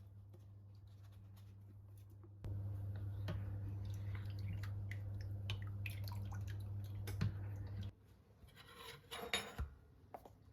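A kitchen appliance running with a steady low hum that grows louder about two and a half seconds in and cuts off suddenly about eight seconds in, with light clinks of dishes over it. A short clatter follows near the end.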